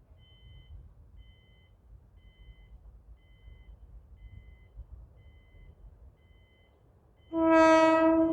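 A level-crossing warning signal beeps in a repeating two-tone pattern, about one short beep every 0.7 seconds, over a low rumble. About seven seconds in, a train horn sounds loudly for about a second as the commuter train approaches the closed crossing.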